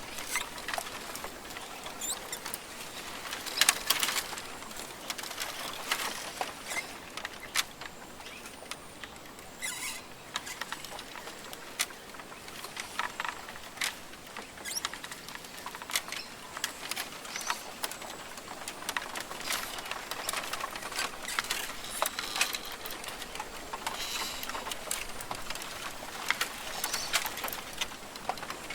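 Rainforest ambience: a steady hiss with many irregular sharp ticks and pattering, a little louder about four seconds in.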